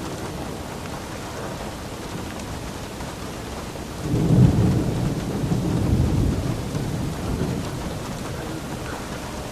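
Steady rain falling, with a roll of thunder rumbling in about four seconds in and dying away over the next few seconds.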